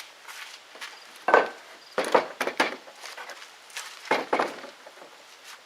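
Wooden boards knocking as they are handled and set down: a handful of separate knocks, the loudest about a second in, with another pair near four seconds in.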